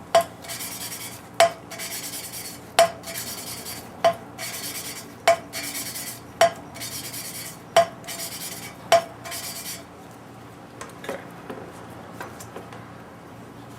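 Valve being hand-lapped onto its seat in a Ford 302 cylinder head with fine lapping compound: a steady gritty scraping as the valve is spun back and forth, broken by a sharp click about every second and a quarter as it is lifted and dropped back onto the seat. The grinding stops about ten seconds in, leaving a few faint ticks.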